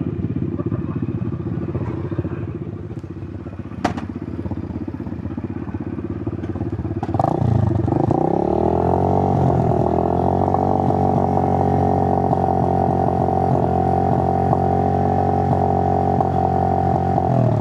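Suzuki GN125's single-cylinder four-stroke engine running at low revs, with a single sharp click about four seconds in. About seven seconds in the engine revs rise, settle by about ten seconds at a steady higher pitch and hold there, then drop off at the very end.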